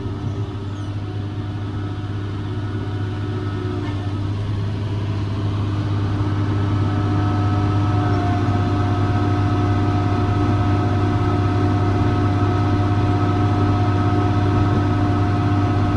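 John Deere 7410 tractor's diesel engine running steadily while pulling and driving a John Deere 468 round baler baling hay. The drone slowly grows louder, and a steady whine comes in partway through.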